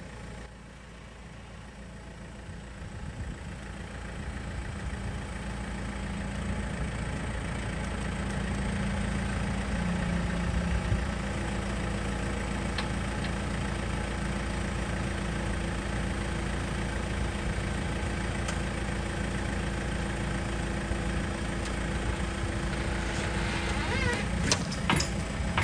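Rock crawler's engine idling steadily, swelling in level over the first several seconds, then holding an even hum.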